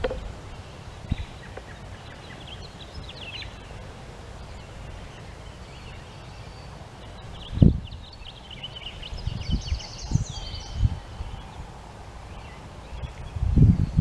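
Songbirds chirping and calling, with short high notes scattered through and a busier run of chirps and whistles in the middle. Dull low thumps and rumbling on the microphone, the loudest about halfway through and again at the end.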